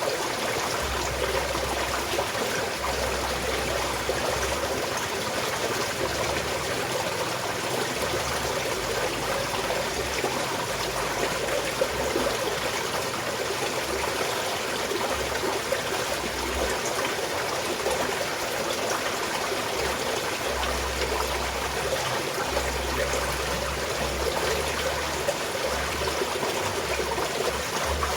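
A small mountain stream flowing and trickling steadily over stones, with a busy babble of small splashes and a soft intermittent low rumble.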